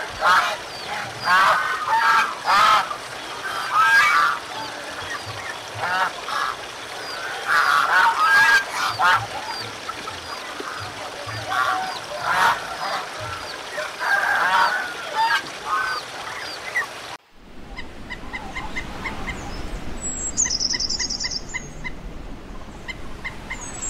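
Waterfowl honking, many calls overlapping in repeated bursts. About three-quarters of the way through it cuts off suddenly to small songbirds calling: a regular series of short pips and, twice, a high descending trill.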